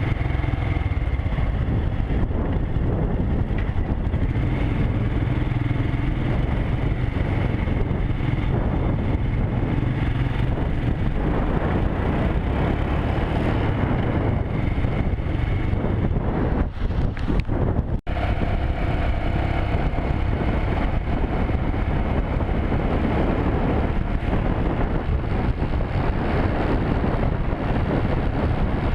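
Motorcycle engine running steadily while riding, with wind and road noise on the microphone. The sound dips and breaks off for a moment about eighteen seconds in.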